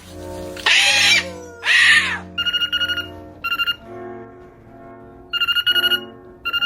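Two loud screeches, then a rapid trilling ring like a telephone bell in short bursts, about four of them. Soft background music runs underneath.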